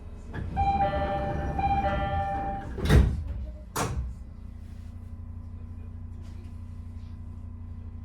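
Door-closing chime of an Odakyu 5000-series commuter train: a two-note chime sounded twice, followed by the sliding doors shutting with a loud knock about three seconds in and a second, softer knock a second later. After that there is only a steady low hum from the train standing still.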